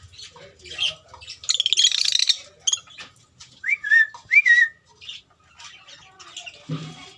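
African lovebirds chattering and squawking: a loud harsh screech lasting about a second, then two short whistled calls, over steady small chirping.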